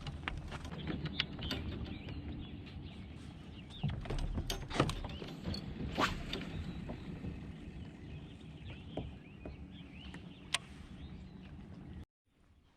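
Kayak under way across the water: a steady low rumble and water noise, with scattered sharp knocks and clicks against the hull, the loudest about five to six seconds in. The sound cuts off suddenly near the end.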